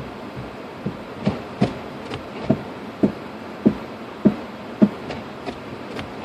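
Cabin of a 2006 Lexus IS250 AWD driving, with steady road noise and a run of about a dozen soft thumps roughly half a second apart, starting about a second in and stopping near the end.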